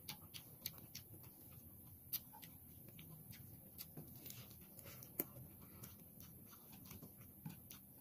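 Faint eating sounds: chewing with scattered soft mouth clicks and lip smacks, a sharper one about two seconds in and another about five seconds in.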